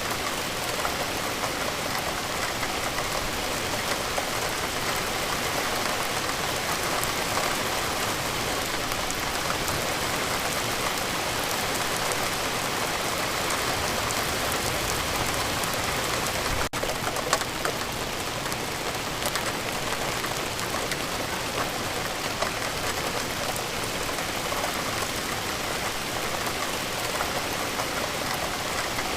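Steady rain falling: a dense, even hiss sprinkled with the ticks of individual drops striking a surface. There is a momentary dip a little past halfway.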